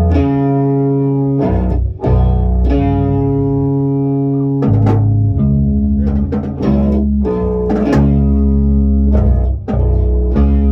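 Guitar playing a slow run of sustained chords, a new chord struck about every two seconds, with a deep low end.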